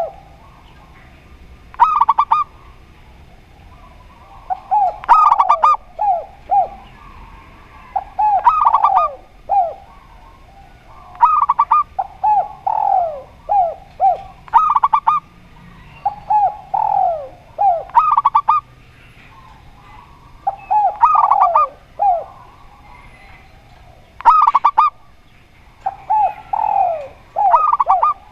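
Spotted dove and zebra dove cooing: short multi-note phrases with falling notes, repeated about every three seconds.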